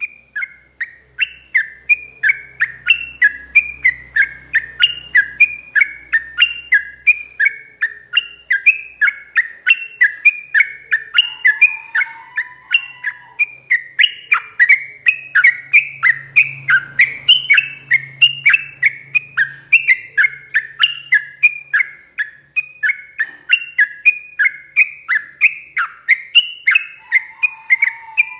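Yellow-vented bulbul (trucuk) singing a long unbroken run of quick repeated chirps, about three a second, with a lower note twice.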